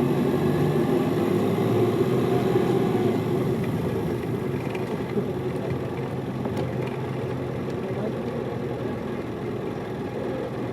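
Diesel engine of a Hino Liesse small bus, heard from inside the cabin, running steadily with the bus under way. The engine note is strongest for the first three seconds or so, then eases slightly and stays lower.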